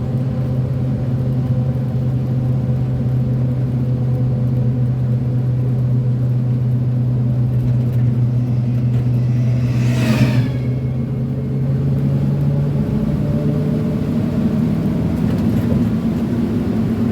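1988 Chevy C30's 454 big-block V8 running steadily at cruise, a low drone heard from inside the cab. About ten seconds in, a passing vehicle rushes by in a brief whoosh, and a little later the engine note shifts slightly.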